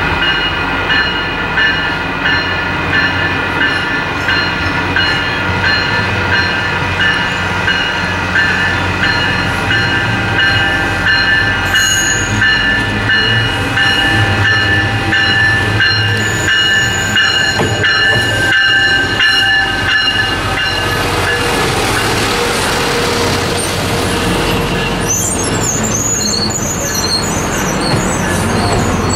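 Railroad crossing bell ringing about once a second as a TriMet WES diesel commuter railcar approaches. About 21 s in the bell stops and the noise of the railcar running past close by takes over, with high wheel squeals on the curve near the end.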